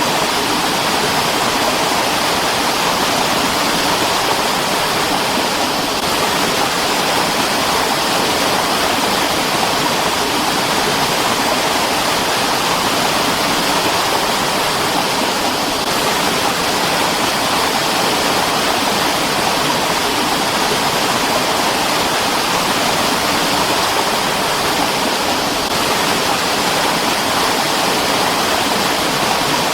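Mountain stream flowing steadily, a continuous even rush of water with no breaks or changes.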